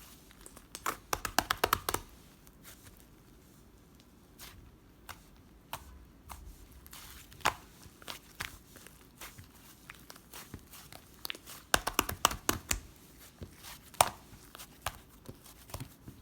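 Hands handling crinkly material such as paper or plastic: two flurries of quick crackling and tearing, about a second in and again near twelve seconds, with scattered light ticks and taps between.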